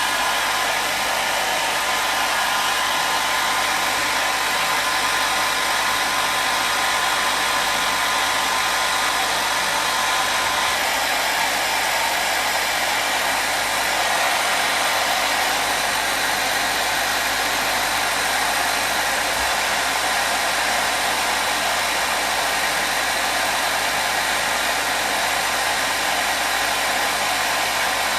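Hair dryer running steadily: an even rushing whoosh of blown air, with a faint motor whine that fades about ten seconds in.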